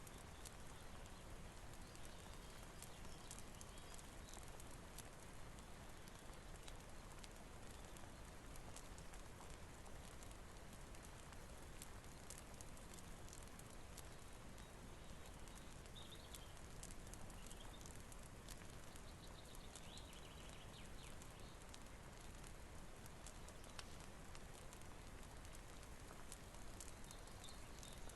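Faint steady rain hiss with a wood fire crackling: scattered sharp pops over an even wash of noise.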